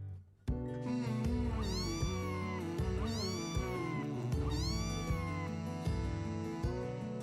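Kitten meowing three times, each meow rising and then falling in pitch, over background music that starts about half a second in.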